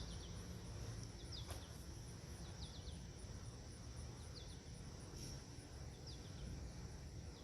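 Faint outdoor background noise with small birds giving short, high, falling chirps in quick groups of two or three, every second or so, over a faint steady high insect hum.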